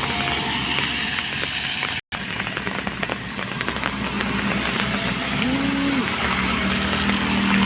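Motor vehicles running on a road: continuous engine and road noise, with a short rise-and-fall in engine pitch a little past halfway and a steady engine hum getting louder near the end. The sound cuts out for an instant about two seconds in.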